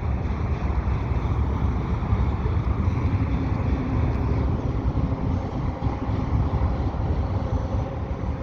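Freight train cars rolling steadily across a bridge, mixed with wind buffeting the microphone.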